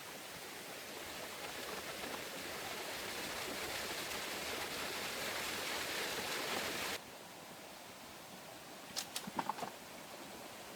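Steady rushing noise of running water, swelling slightly and then cutting off abruptly about seven seconds in. A quieter hiss follows, with a few short clicks and brief high tones a couple of seconds later.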